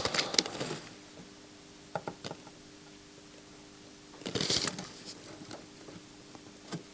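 Small clicks and taps of hand tools working on a circuit board during soldering, with a brief rustle about four seconds in. A faint steady hum runs underneath.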